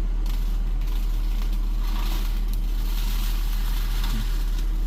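Diesel engine of an 80-size excavator with a brush-cutter (bush hog) head, running steadily with a deep hum. A rushing noise swells about two seconds in and eases off before the end.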